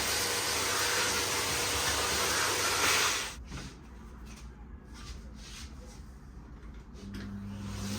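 Miele vacuum cleaner running with a loud airy hiss that cuts off abruptly about three seconds in. A few light clicks and knocks follow. Near the end the motor starts up again as a steady hum that grows louder.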